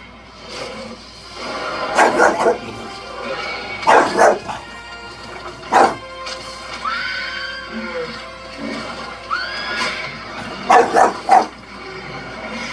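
Dog barking in short sharp clusters: two barks about two seconds in, two more around four seconds, one near six, and three near the end. Two short rising calls come in between, over background music.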